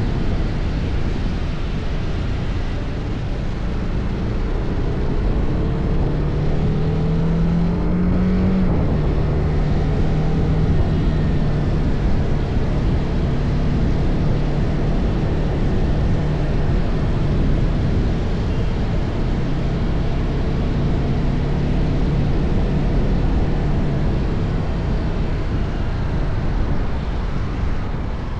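TVS Apache RR 310's single-cylinder engine on its stock exhaust, running steadily under way, with heavy wind and tyre noise. About six seconds in the engine note rises for a couple of seconds, then drops back and holds steady.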